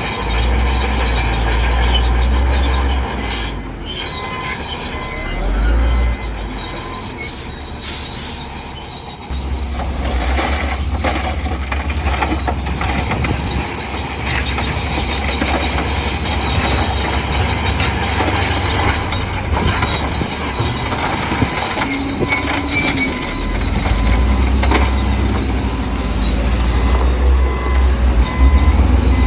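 Bulldozer working rock fill: its diesel engine running under load, with high metallic squealing and clanking. The low engine rumble drops away about three seconds in and from about nine to twenty-four seconds in, then comes back strongly.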